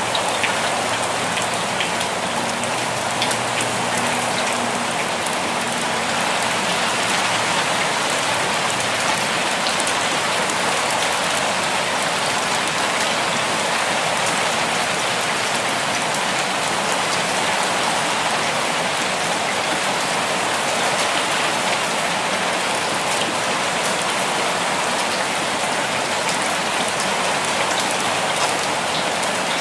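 Steady rainfall with a dense patter of drops, constant with no thunder.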